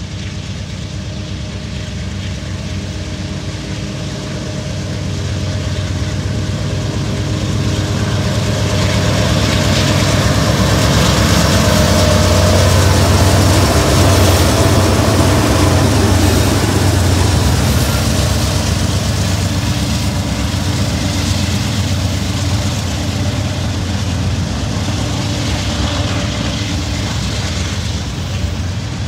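Norfolk Southern diesel freight locomotives approaching and passing, their low engine drone growing louder to a peak about 13 seconds in. A steady rumble of freight cars rolling by follows.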